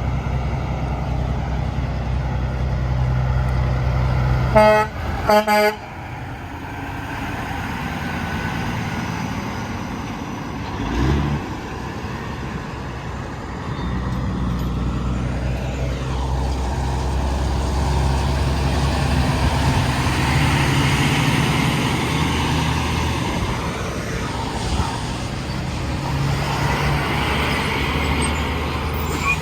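A semi truck's horn blasts twice in quick succession about five seconds in, loud and brief. Heavy trucks run past on the highway, with a steady engine rumble and tyre noise.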